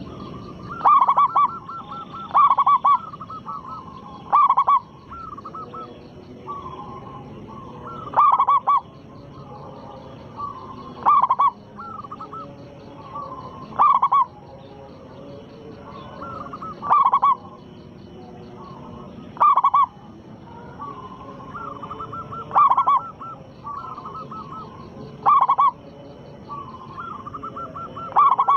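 Zebra doves (perkutut) cooing: a loud call comes about every three seconds, about eleven in all, with softer rapid cooing phrases in between.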